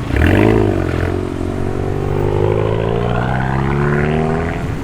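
A car engine revs up and falls back once, then pulls away, its pitch climbing steadily for about three and a half seconds before easing off near the end.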